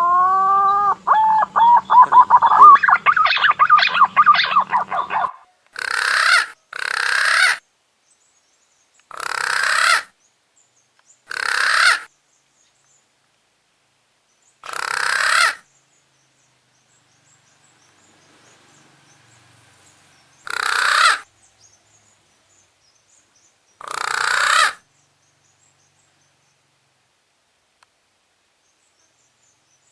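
Green pigeon (punai daun) lure call: a rising whistled note that breaks into a quick run of warbling notes for about five seconds. It is followed by seven short, hissing, breathy calls spaced a few seconds apart.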